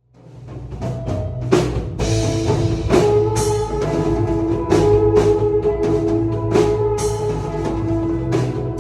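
Live band jamming: a drum kit with repeated cymbal hits over a bass line and held chords, fading in over the first second.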